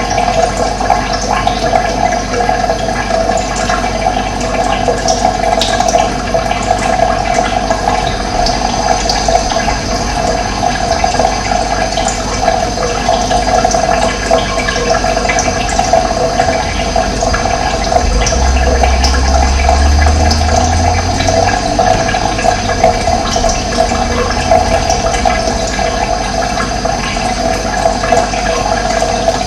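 Running water flowing steadily with a dense, even rush. A low rumble swells under it about two-thirds of the way through and fades a few seconds later.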